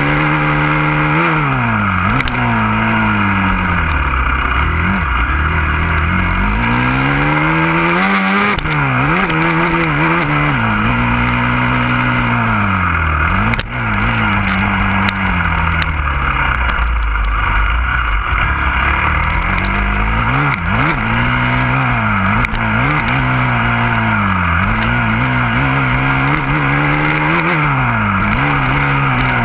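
Husqvarna FC 350 four-stroke single-cylinder dirt bike engine running hard, its pitch rising and falling again and again as the throttle is opened and closed. A few sharp knocks come in about halfway through.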